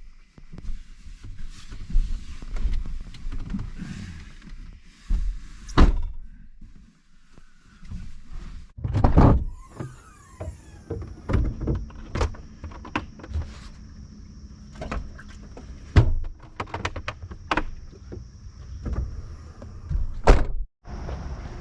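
Irregular knocks, thumps and clatter of camping gear being handled and packed away, with a faint steady high-pitched tone running through much of it.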